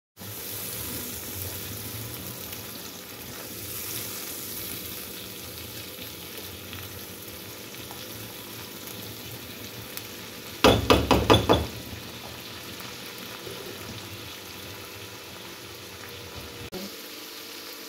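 Onion, tomato purée and ground spices frying with a steady sizzle in a nonstick karahi, stirred with a silicone spatula. A little past halfway comes a quick run of about six loud knocks.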